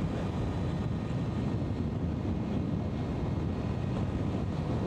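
Steady wind rushing over the microphone with road noise from an Energica Experia electric motorcycle riding on asphalt.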